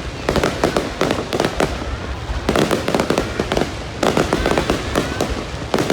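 Aerial fireworks going off in a rapid, dense barrage of overlapping bangs and crackles, coming in clusters with short lulls between them.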